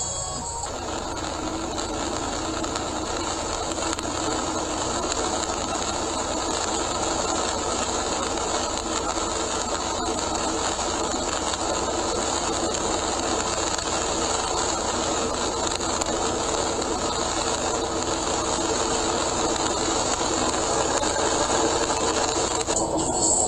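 Steady road noise and heavy rain, heard from inside a car driving at speed on a wet expressway: tyres hissing through standing water and rain striking the body. It grows slowly louder.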